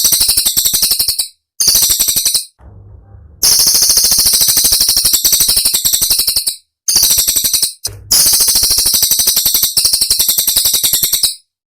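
Cililin songbird recording: very rapid trains of sharp, shrill, rattling notes, the fast 'tembakan' bursts of the song. There are five bursts of one to three seconds each, separated by short pauses.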